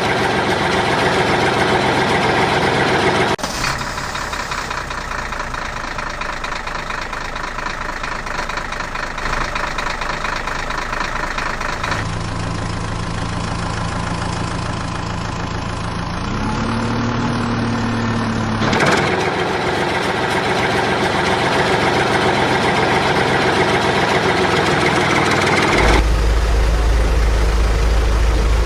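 Engine sound effects for heavy vehicles, a JCB backhoe and trucks, running and idling steadily. The sound changes abruptly several times, about 3, 12, 19 and 26 seconds in, as one engine sound gives way to another.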